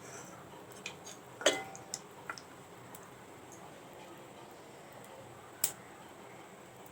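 Mustard seeds in hot coconut oil beginning to pop: a few scattered, sharp pops, the loudest about a second and a half and five and a half seconds in.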